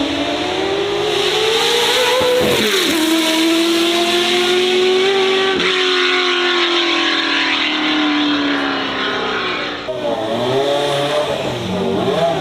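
Racing car engine at high revs: the note climbs, breaks sharply on a gear change about two and a half seconds in, then falls slowly for several seconds. Near the end a different, lower engine note takes over, revving unevenly.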